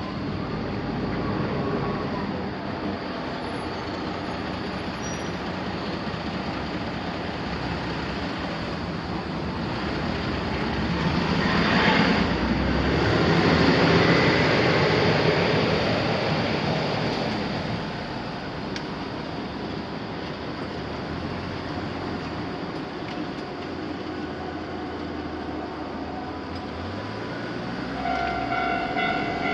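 A Kintetsu Nagoya Line train passes over the level crossing: its running and wheel-on-rail noise builds to a peak about midway, then fades. Near the end the crossing's warning bell begins ringing in steady electronic tones.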